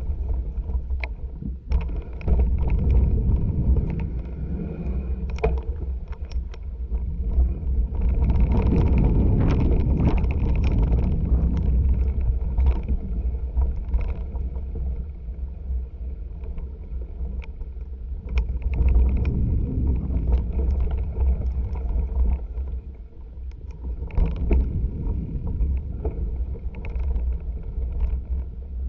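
Mountain bike ridden over a dirt trail: wind buffeting the action camera's microphone as a steady low rumble, with tyre noise and frequent sharp knocks and rattles of the bike over bumps, rougher and louder about a third of the way in.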